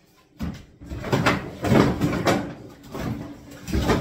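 Kitchen cabinet units being knocked apart by hand to flat-pack them: an irregular run of knocks and creaks from the panels, loudest near the middle and again just before the end.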